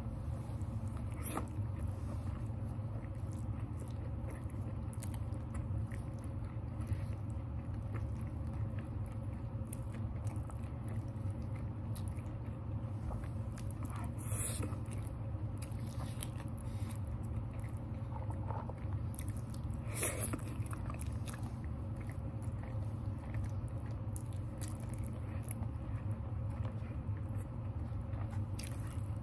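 Close-up chewing and mouth sounds of a person eating chicken and broccoli Alfredo pasta, with scattered small clicks, over a steady low hum.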